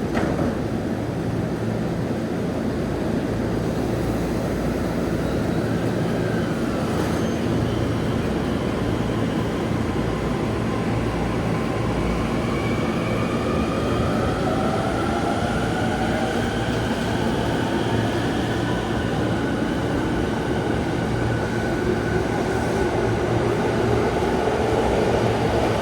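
Electric commuter train pulling out of the platform: a steady rumble of wheels and running gear, with a motor whine that rises in pitch from about halfway through as the train picks up speed.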